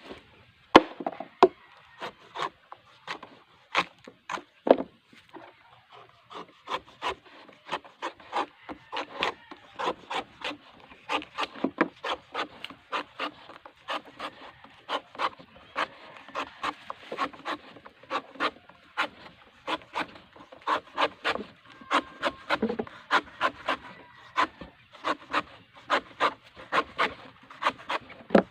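Repeated chops of a blade into a coconut's husk as a small hole is cut, sparse at first, then a steady run of about two to three strikes a second.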